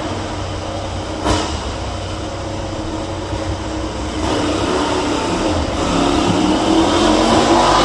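MotoGP racing motorcycle engines running on track, growing louder from about four seconds in as a bike draws nearer, with one sharp click about a second in.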